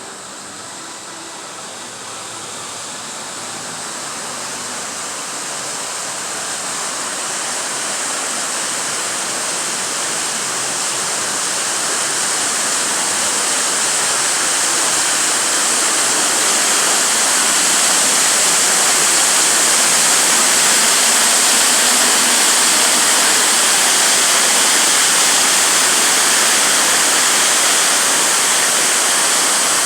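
Waterfall: a steady rush of falling water that swells in loudness over about the first eighteen seconds, then holds level.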